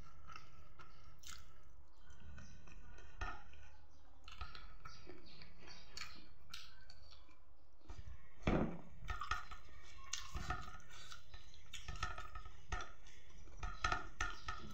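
A person eating close to the microphone: chewing with many short mouth clicks and smacks, which grow more frequent about halfway through, the loudest coming just after that.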